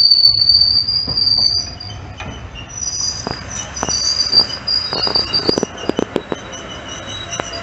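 A passenger train running on the line, with a loud, steady, high-pitched whine over the low rumble of the wheels. From about three seconds in come irregular sharp clacks of the wheels on the track, while the whine fades to several fainter high tones.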